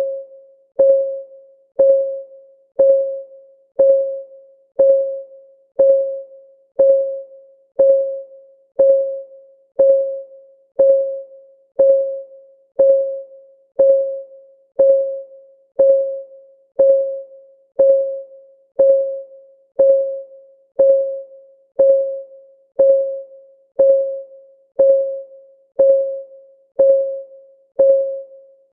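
Countdown timer's ticking sound effect: one short, pitched tick every second, each a single soft tone that fades quickly, keeping a steady beat.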